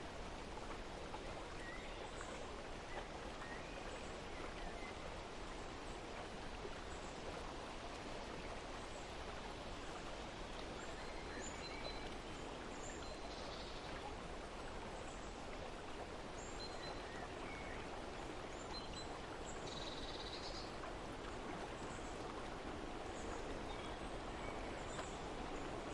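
Steady rush of flowing water with small birds chirping faintly here and there, and two slightly louder calls, one about halfway through and one about two-thirds through.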